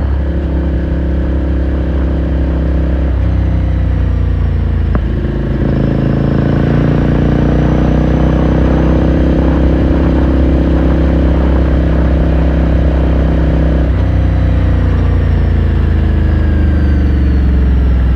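Ducati Scrambler Sixty2's air-cooled 399 cc L-twin running under way, heard from onboard. There is a gear change with a short dip about five seconds in, after which the engine pulls a little louder. The revs ease down over the last few seconds.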